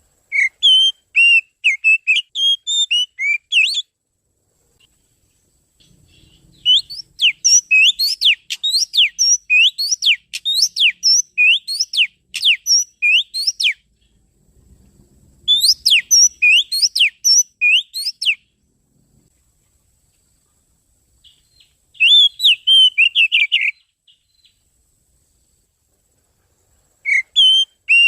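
Oriental magpie-robin (kacer) song used as a lure call: rapid whistled notes, chirps and slurred phrases in several bursts of a few seconds each, separated by short pauses.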